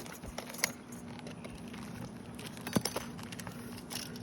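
Scattered light metallic clicks and taps as tools are handled, with a sharper knock a little under three seconds in.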